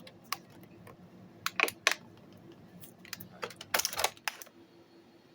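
Irregular clicks and clatter of small hard plastic parts being handled, with a short cluster about a second and a half in and a louder, denser burst of clicks around four seconds in.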